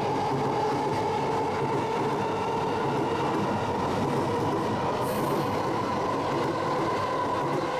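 JR East electric commuter train running along the station platform: steady rumble of wheels on rail with a motor whine that slowly rises in pitch. A short hiss comes about two-thirds of the way through.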